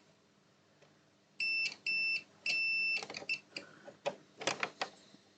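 Multimeter continuity beeper sounding three times, two short beeps and then a longer one, as the probes touch points on a PS5 motherboard, followed by small clicks of the probe tips. The beeps show continuity to ground, which is taken for a short on the south bridge.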